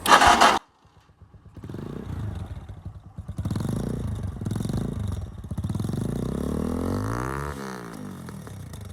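Lexmoto R9 motorcycle exhaust with the dB killer baffle fitted, engine running at idle with one blip of the throttle, rising and falling in pitch about seven seconds in. A brief loud noise comes at the very start, before the engine is heard.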